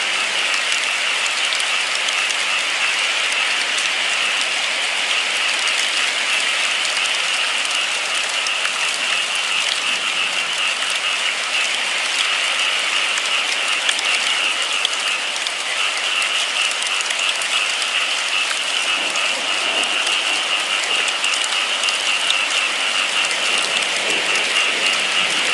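Steady rain: an even, dense hiss of falling drops with fine patter, unchanging throughout.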